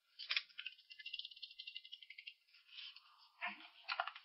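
Eating sounds close to the microphone: a fast crackle of chewing and wet mouth clicks for the first couple of seconds, then a second cluster of clicks near the end.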